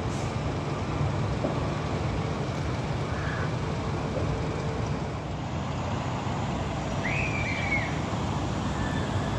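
Steady low engine rumble, with a short high squeak about seven seconds in.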